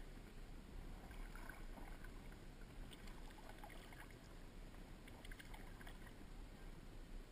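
Kayak paddling: light paddle splashes and drips, in faint groups about every two seconds, over a low steady rumble.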